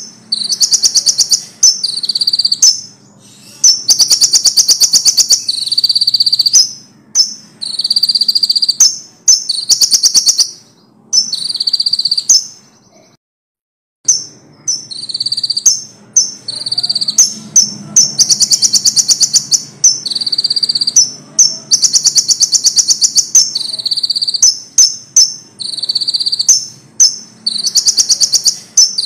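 Konin songbird singing loudly in quick repeated phrases of high, fast trills and sharp chirps, a song stuffed with imitations of other birds. It breaks off for about a second roughly midway, then carries on.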